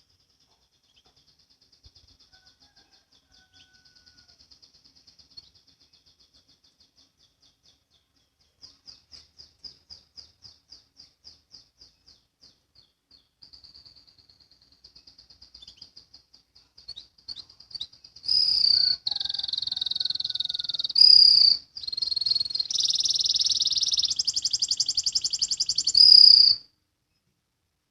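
Domestic canary singing in long, very fast chattering trills of the 'ngriwik' kind, high and thin. The trills are faint and broken at first, turn loud and continuous about two-thirds of the way in, and stop suddenly near the end.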